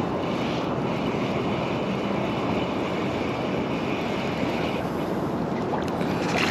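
Steady rushing hiss of heavy rain, even in level throughout, with a brighter upper layer that eases off about five seconds in.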